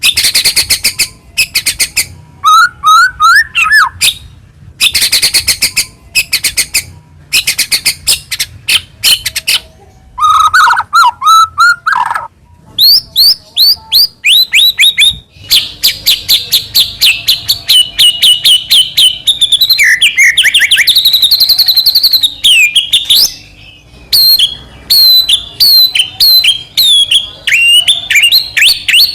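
White-rumped shama (murai batu) singing loudly and continuously: fast runs of sharp ticking chips, warbled phrases and clear whistled notes. In the second half it goes into a long string of quick repeated notes, with a brief pause near the end.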